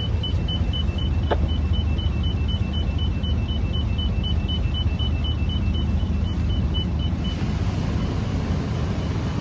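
A yacht's depth-sounder alarm beeping rapidly, about four short high beeps a second, then stopping about seven seconds in: a shallow-water warning as the depth under the keel drops. Under it, the boat's engine runs with a steady low hum.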